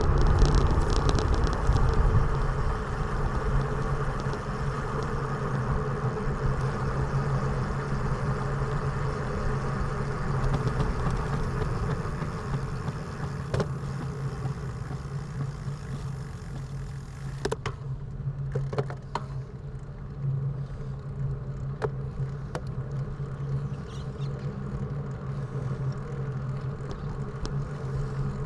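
A motor vehicle's engine running with a steady low hum over road noise, growing quieter a little past halfway, when a few sharp clicks or knocks come through.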